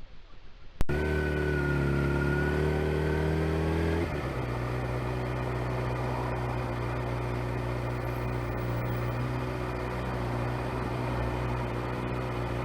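A motorcycle engine running steadily while riding. It starts suddenly about a second in. For the next few seconds its pitch wavers slightly, then it changes to a steady, lower drone.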